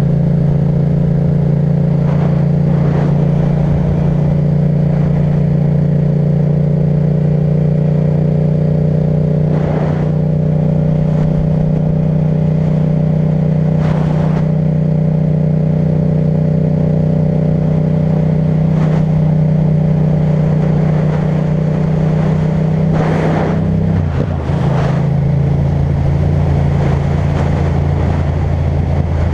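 Yamaha MT-07's parallel-twin engine through an Akrapovic titanium exhaust, running at a steady speed while riding, heard from the bike-mounted camera. About 24 seconds in the engine note drops to a lower pitch and carries on steadily.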